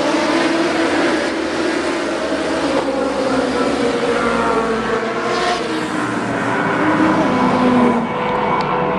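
Several racing superbike engines running together, their pitches drifting up and down as they are revved.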